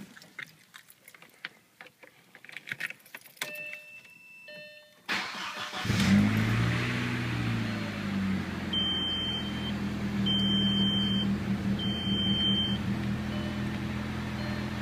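Audi A4 1.8-litre turbocharged four-cylinder starting for the first time after a secondary air injection delete: a few key clicks and a dash chime, then a brief crank at about five seconds in. The engine catches, flares up and settles into a steady idle. Three short high beeps sound partway through the idle.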